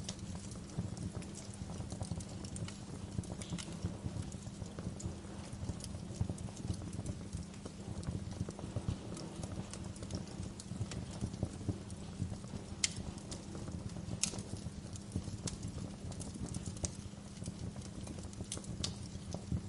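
Wood fire crackling: a steady low rumble of burning logs with scattered sharp pops and snaps, a couple of louder pops about two-thirds of the way through.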